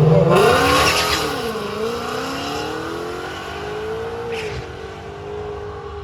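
Drag-racing engine at full throttle launching off the line and pulling away. Its pitch climbs steeply, then drops and climbs again at each of two gear changes, while the sound fades with distance.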